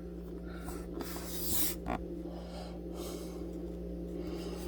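A few short hissy breaths close to the microphone, the loudest about a second in, over a steady low electrical hum.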